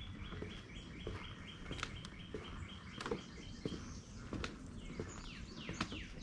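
Songbird singing: a fast run of repeated high chip notes, about four a second, for the first few seconds, then a string of downward-slurred whistles near the end. Footsteps knock irregularly underneath.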